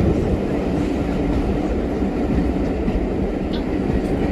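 Steady rumble of a moving train's carriage heard from inside, wheels running on the rails, with a faint steady hum under it.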